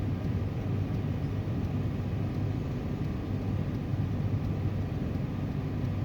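Vehicle engine running steadily, a low rumble with no change in pace.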